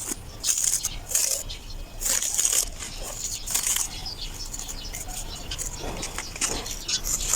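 Soil being dug and scraped by hand for a shallow pit, in irregular gritty scraping strokes, a few strong ones in the first half and lighter ones later.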